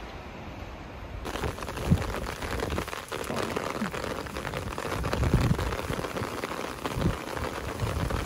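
Heavy rain falling, a dense crackling patter that starts suddenly about a second in, with low thuds through it. Before that comes a quieter wash of wind and sea.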